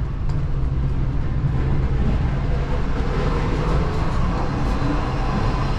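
Steady low rumble inside a Chinese hard-sleeper train carriage, with a fainter hiss above it.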